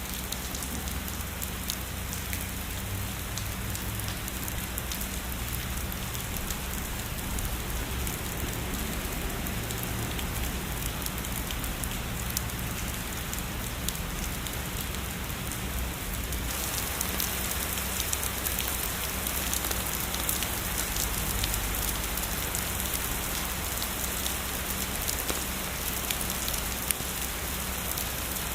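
Heavy rain falling steadily, a dense hiss of many drops ticking. A little past halfway it abruptly turns brighter and more crisp.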